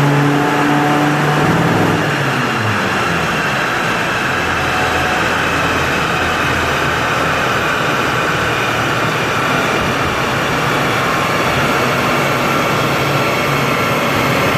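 Turbocharged four-cylinder VW 1.9 TDI diesel (AJM) with a GTB2056V turbo and straight-through exhaust, held high at first, then the revs fall away about two seconds in. It settles into a steady lower running note under a loud hiss with a faint turbo-like whistle.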